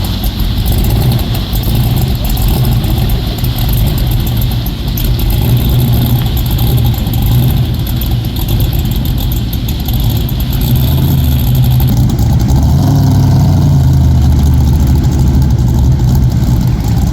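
Big inboard V8 race-boat engine running with a deep, steady rumble; about twelve seconds in it gets louder and lower.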